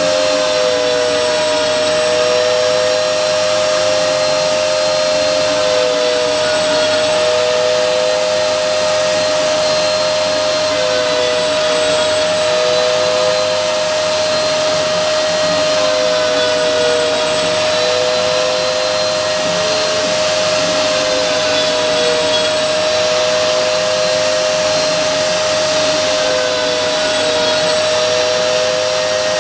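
CNC router spindle running with a steady high-pitched whine while milling, its pitch dipping slightly and recovering every few seconds as it takes load in the cut.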